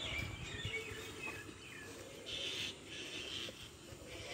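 Small birds chirping in short, high calls, mostly in the first second and a half, over steady outdoor background noise.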